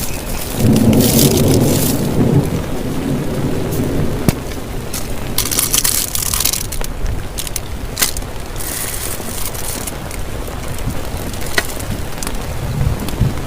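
Heavy rain falling steadily on a tarp, with a low thunder rumble that breaks out about half a second in and fades over the next few seconds. A few sharp taps stand out from the rain, and a fainter rumble comes near the end.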